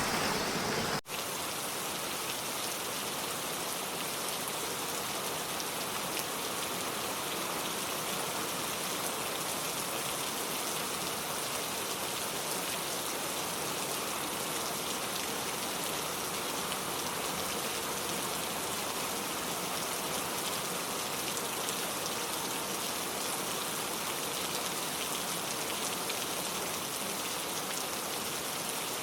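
Steady rain falling in a forest, an even hiss of drops with a momentary break about a second in.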